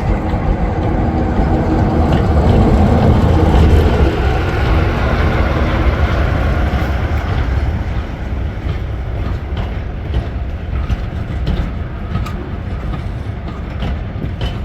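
A diesel locomotive hauling a train runs past, its engine loudest a few seconds in and then fading. Sharp wheel clicks over the rail joints follow in the second half.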